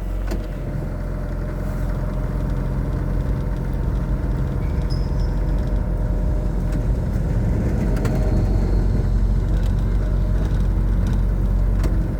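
Vintage Blackpool electric tram moving off along the track: a steady low rumble of motors and wheels on rail that builds gradually as it gathers speed.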